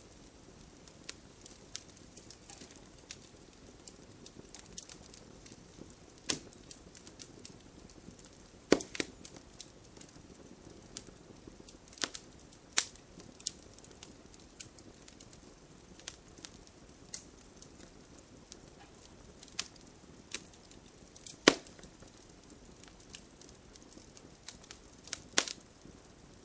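Wood fire crackling in a fireplace: irregular sharp pops and snaps over a low, steady rustle of burning, with the loudest pops about nine seconds in and again about twenty-one seconds in.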